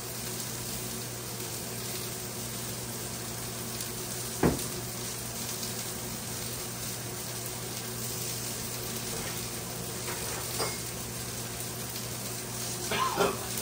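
Food sizzling steadily on the stovetop, with a low hum underneath and a single sharp knock of cookware about four and a half seconds in.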